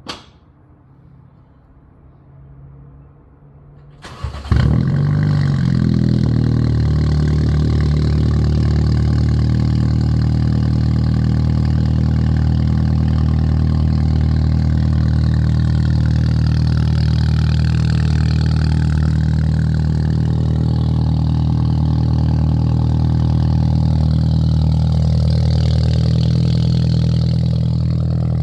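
Straight-piped Mini Cooper F56 engine started about four seconds in: it catches, flares briefly, then settles into a loud, steady idle.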